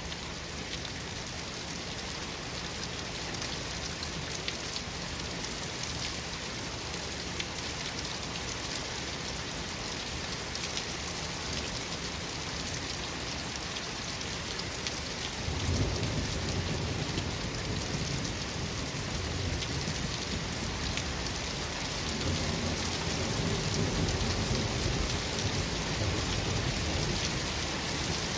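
Steady rain falling, with a low rumble of thunder coming in about halfway through and rolling on, swelling again near the end.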